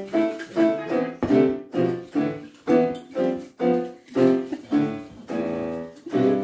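Piano music: chords struck at an even pace of about three a second, each dying away, with one longer held chord near the end.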